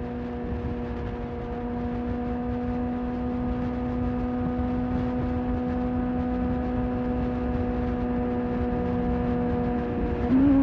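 Sport motorcycle engine holding a steady cruise, with a low rush of wind under the note. Near the end the note briefly dips, then comes back higher and louder as the throttle opens.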